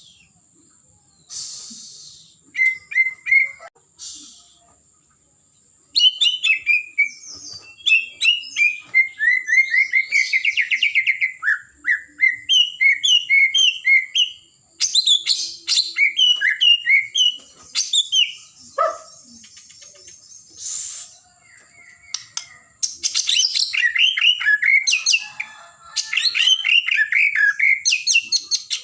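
White-rumped shama singing: long runs of rapid, varied whistled and chirping notes, with a few seconds' pause about two-thirds of the way through before it starts up again.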